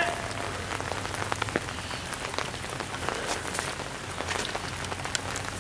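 Light rain pattering: an irregular spatter of small drop ticks over a soft steady hiss, with footsteps through wet grass and brush.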